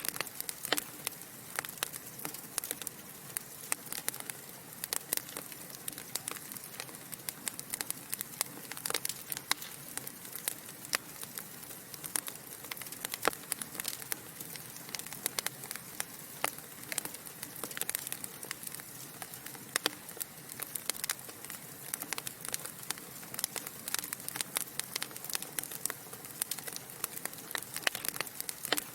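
Wood fire burning in a fireplace: a steady soft hiss with frequent irregular sharp crackles and pops from the burning logs.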